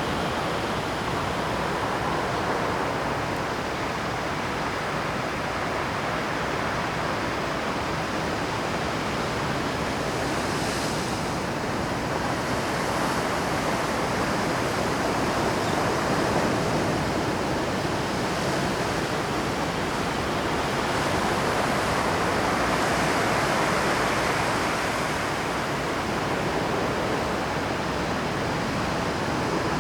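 Rough Pacific surf breaking and washing over a rocky shore at high tide: a continuous rush of waves that swells louder around the middle and again late on.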